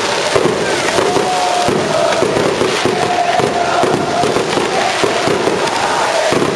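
Fireworks and firecrackers going off in a dense, continuous crackle, over a large crowd of football fans chanting.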